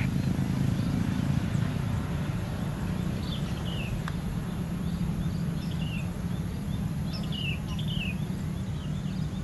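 A steady low rumble, with small birds chirping over it several times in the second half.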